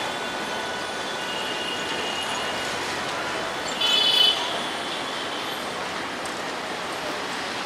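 Intercity train with PT Inka coaches rolling slowly through station-yard pointwork: a steady rolling hiss with a faint high whine. A short, loud high-pitched tone sounds about four seconds in.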